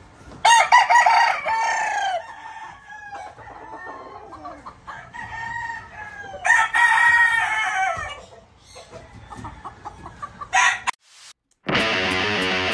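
Gamefowl roosters crowing, two long crows about six seconds apart, with softer clucking and calls between. Near the end the sound cuts to guitar music.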